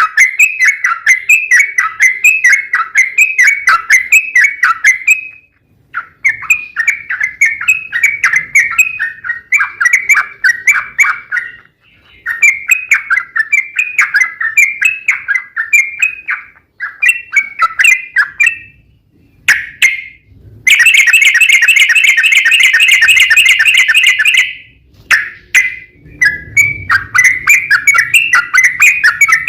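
Trucuk (yellow-vented bulbul) singing in fast, repeated chattering phrases with short pauses between runs. About two-thirds of the way through it breaks into a long, dense rolling trill, the 'ropel panjang', lasting about four seconds before the chattering phrases resume.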